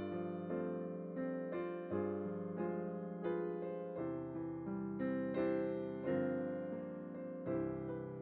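Background piano music: gentle, evenly paced notes and chords, each struck and left to fade.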